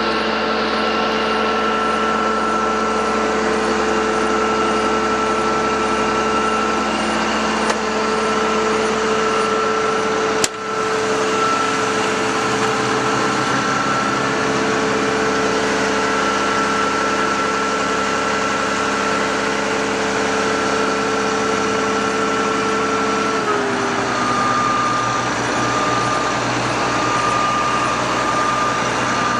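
A steady engine or motor hum holding one pitch, dropping a step lower about 23 seconds in, with a single sharp click about ten seconds in.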